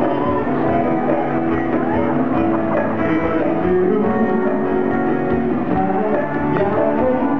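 Band music led by guitar, playing steadily.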